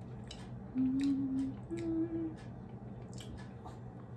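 A person hums two short notes with the mouth closed, the second a little higher, like a full-mouthed "mm-hmm", over small wet mouth clicks from chewing.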